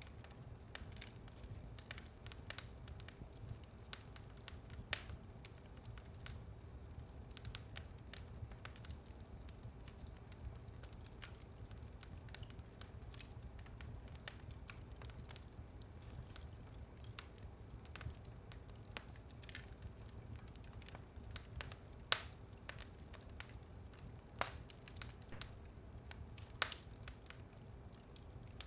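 Wood fire burning in a fireplace: frequent small crackles and snaps over a steady low rumble, with a few louder pops in the last third.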